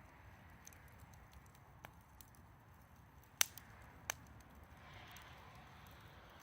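Wood fire crackling quietly, with scattered small pops and two sharper snaps about three and a half and four seconds in.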